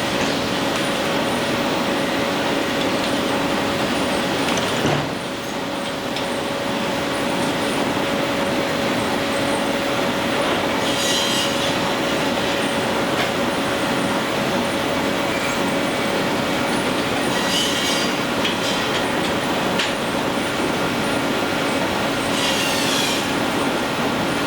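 Steam-driven sawmill machinery running steadily, with a constant hum. Three short, high, hissing bursts come about six seconds apart.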